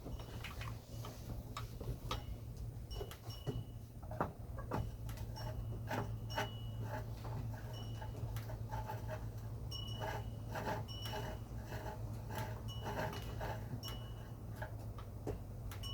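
Hand tools clicking, tapping and clinking against the metal parts of a portable generator as its screws are worked out, in irregular sharp ticks, some with a short metallic ring, over a steady low hum.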